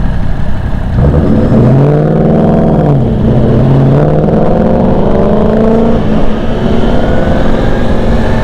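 Vehicle engine at low speed: about a second in, its pitch rises and then falls back over a couple of seconds, then holds fairly steady, over a low wind rumble.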